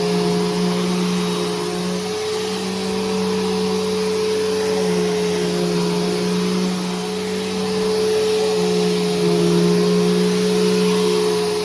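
Bissell Powerforce Helix Turbo upright vacuum cleaner running steadily, a constant motor whine over a lower hum that wavers slightly in pitch.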